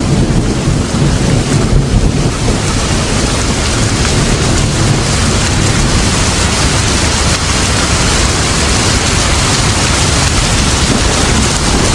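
Steady heavy rain with a continuous low rumble underneath, used as a rain-sound backing track.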